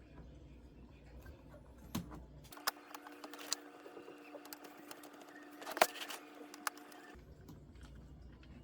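Small clicks and taps of laptop parts being handled during an SSD swap, the sharpest about six seconds in. For several seconds in the middle a steady, even-pitched hum runs under the clicks.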